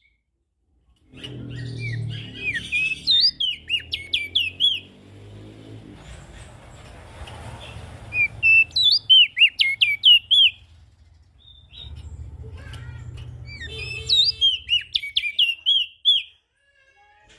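Prenjak daun songbird singing in three bouts of rapid, sharp, sliding chirps, with pauses between them, over a low background rumble.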